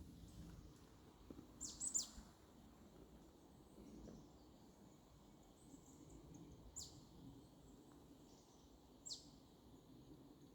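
Faint bird calls in quiet forest ambience: short, high chirps that fall in pitch, a pair about two seconds in and single ones near seven and nine seconds.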